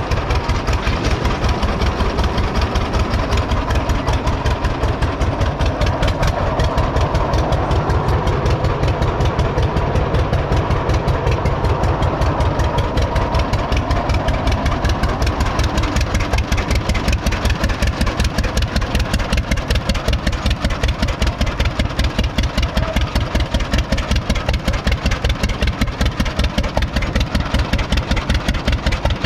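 1926 John Deere Model D Spoker's 7.6-litre two-cylinder all-fuel engine running steadily, a regular pulsing beat from its exhaust.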